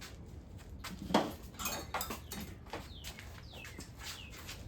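Metal hand tools and engine parts clinking and knocking together in irregular clacks, loudest about a second in. Near the end come three short high squeaks, each falling in pitch.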